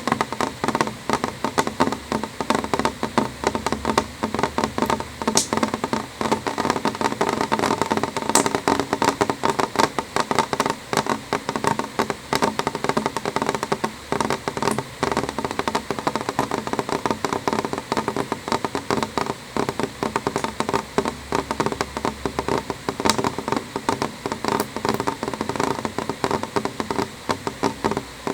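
Gentle rain on a window pane: a steady, dense patter of small drops tapping the glass, with now and then a sharper tick from a larger drop.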